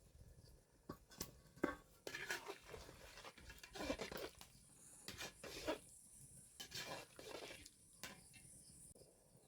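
Faint, irregular scraping and clatter of a utensil working in a cooking pot of rice and boiling water, in several short bouts.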